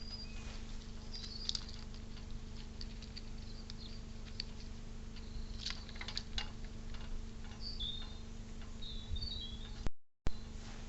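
Small birds chirping in short high twitters, several of them in the second half, with scattered light clicks and taps, a cluster of them about six seconds in, over a steady low electrical hum.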